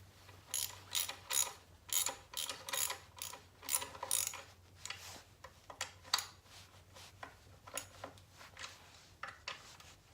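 Socket ratchet wrench clicking in short runs of quick clicks, with pauses between strokes, as a nut is run down.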